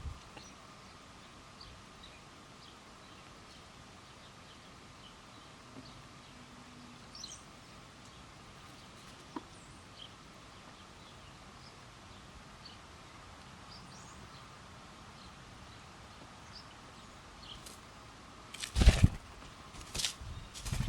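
Small birds chirping faintly and now and then over a faint steady hum. Near the end come two loud, short noisy bursts, such as rustling or a bump.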